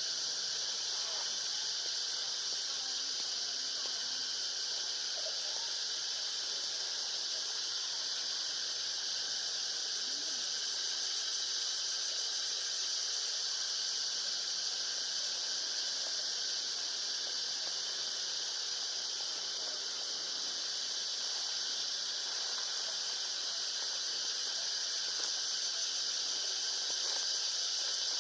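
A steady, high-pitched chorus of insects droning without a break, with a few faint short calls underneath.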